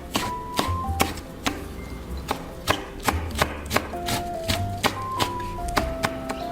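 A kitchen knife chopping on a cutting board: an irregular run of sharp knocks, about two to three a second, over background music.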